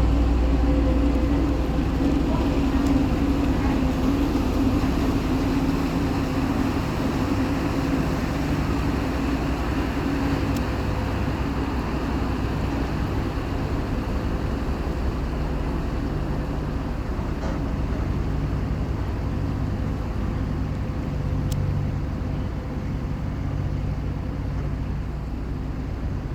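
Car ferry's diesel engines running in a steady low hum as the ship leaves port, with a higher drone that fades out about ten seconds in and the whole sound slowly growing quieter.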